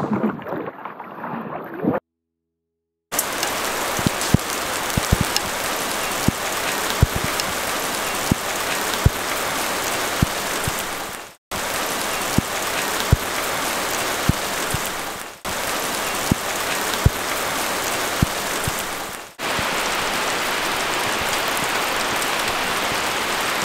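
Steady rain falling in forest, with heavy single drops striking close by about once a second. It opens with a kayak paddle working the water, then, after a second of silence, the rain comes in and dips briefly three times.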